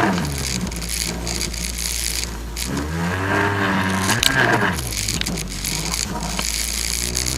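Jet ski engine running steadily, revved up and back down about three seconds in, with scattered sharp clicks and clatter over it.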